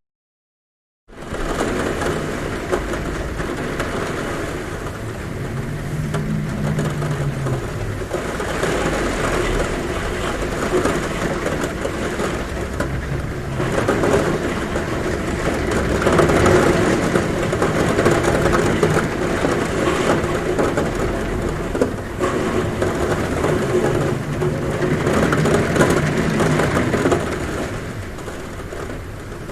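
Heavy rain drumming on a roof in a steady, dense hiss, coming in after about a second of silence. A low hum rises and falls under it a few times.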